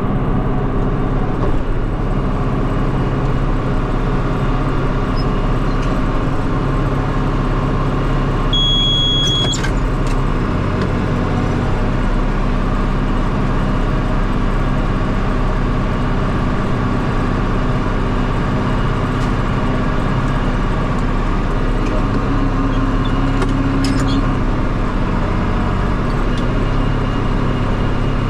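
Farm tractor engine running steadily, pulling a round baler through the hay. A short high electronic beep sounds about nine seconds in.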